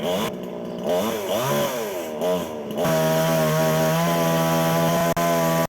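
Chainsaw revving up and down several times, then running steadily at high speed for the last few seconds before cutting off abruptly.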